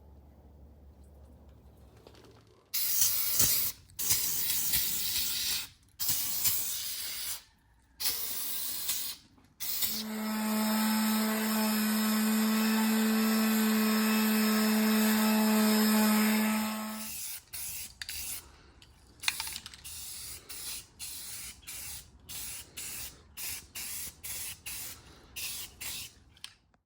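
Spray gun spraying paint in bursts of hissing air as the trigger is pulled and released, with a steady pitched tone over the hiss during one longer pass of about seven seconds, followed by many short quick bursts.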